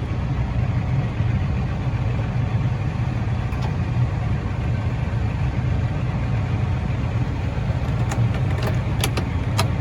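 Farm harvest machinery's diesel engine running steadily with a low drone, and a few sharp clicks near the end.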